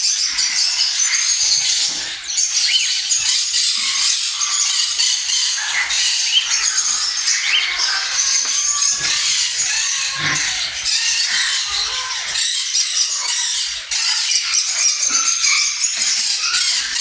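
A flock of small birds chattering, with many short, high chirps overlapping without a break.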